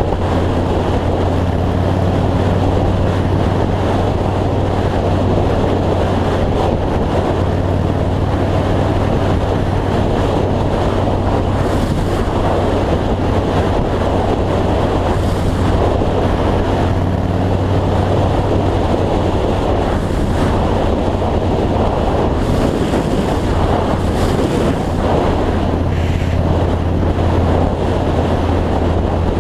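2003 Yamaha Road Star's V-twin engine droning steadily at cruising speed under heavy wind rush on the microphone.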